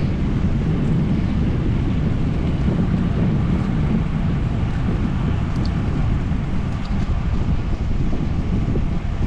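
Wind buffeting the microphone of a moving bicycle rider, a steady low rumble, with a couple of faint ticks partway through.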